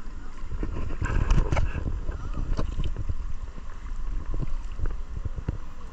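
Kayak out on the river: water splashing and rushing around the boat, with wind buffeting the microphone in irregular low thumps.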